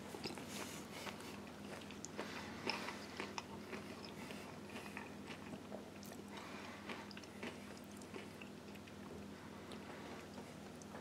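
Faint chewing of a mouthful of burrito: a soft flour tortilla with lentil filling and crumbled tortilla chips, giving irregular small crunches and wet mouth sounds, over a steady low hum.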